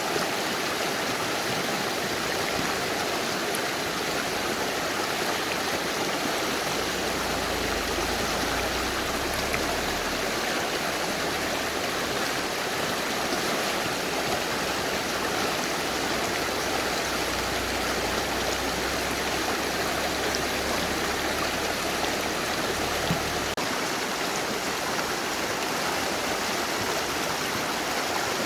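Mountain river rushing steadily, a constant dense wash of flowing water. A low rumble runs underneath for much of the middle and stops a few seconds before the end.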